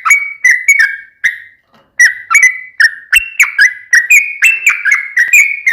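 Yellow-vented bulbul song: a rapid series of short, loud, whistled notes with quick sliding pitch, about three a second. The song breaks off about a second in and starts again near the two-second mark.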